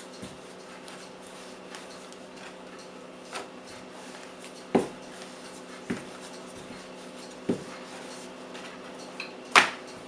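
Rolling pin working puff pastry into a thin sheet on a floured surface, with about five short knocks of the pin against the board, the loudest near the end, over a steady low hum.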